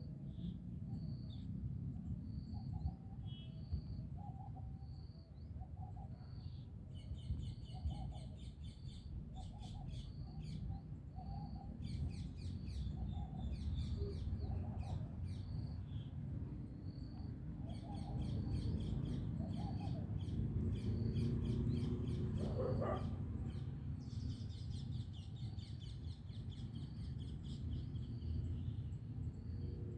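Several birds chirping and calling: a short high note repeated about once a second, broken by bursts of rapid trilling, with a lower call repeating alongside. A steady low rumble lies under them throughout.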